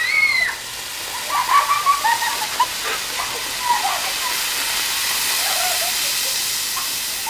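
A lit firework hissing steadily. Faint short voices are heard over it in the first few seconds.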